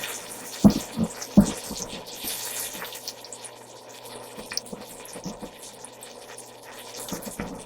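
Two sharp knocks of a utensil on a cooking pot about a second in, followed by faint scraping and small clicks over a low steady hum.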